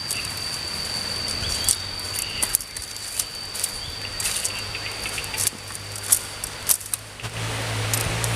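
Forest ambience: a steady high insect drone with scattered sharp clicks and snaps, and a low hum coming in near the end.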